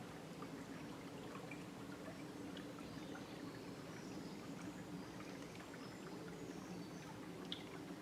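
River water flowing steadily: a continuous, even rush of running water.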